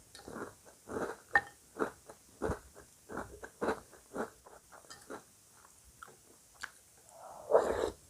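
Close-miked crunchy chewing of breakfast cereal, in short strokes at about two a second, with a longer, louder noise near the end.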